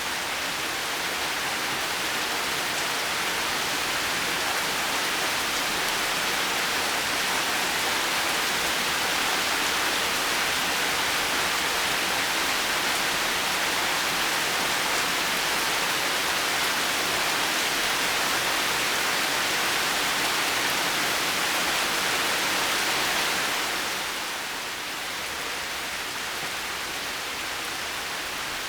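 Heavy rain falling steadily, a dense even hiss with no thunder. It softens a little a few seconds before the end.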